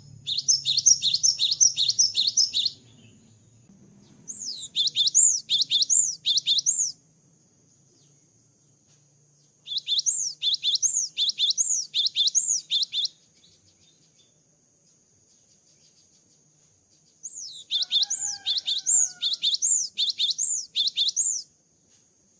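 Cinereous tit (gelatik batu) singing: four bouts of a quickly repeated two-part whistled phrase, about four to five notes a second, with short pauses between bouts. A faint steady high tone runs underneath.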